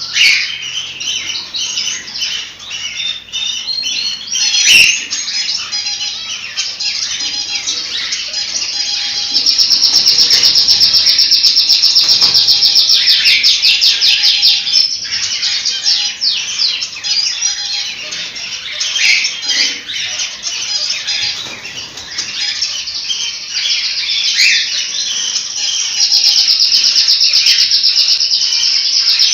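A group of cockatiels chirping and calling over one another, with a fast, evenly pulsed call that runs for about five seconds starting a third of the way in and starts again near the end.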